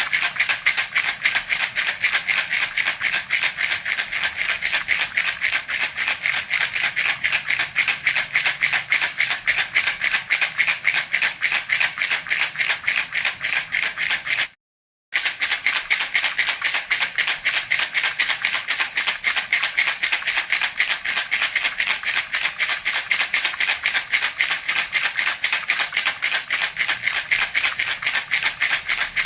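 Baby's toy rattle (jhunjhuna) shaken in a fast, even rhythm, a continuous bright clatter of beads. The sound breaks off completely for about half a second near the middle, then carries on.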